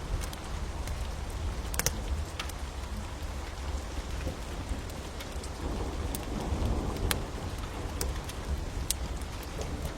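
Steady rain with a deep low rumble underneath, and scattered sharp crackles and pops of a wood fire.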